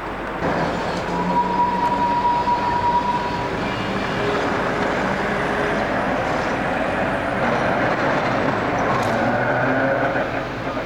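A vehicle running close by: a steady engine drone with road or rail noise, with a brief high steady tone about a second in.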